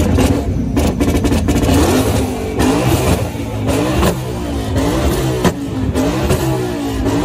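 A car engine being revved hard again and again, its pitch climbing and falling back roughly once a second.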